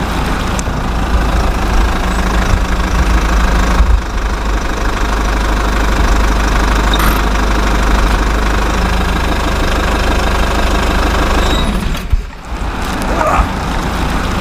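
Engine running steadily with a constant low hum, dropping off briefly about twelve seconds in before picking up again.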